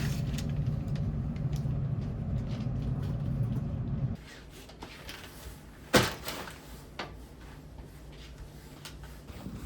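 A steady low hum that stops abruptly about four seconds in, then a sharp knock about two seconds later and a fainter knock a second after that.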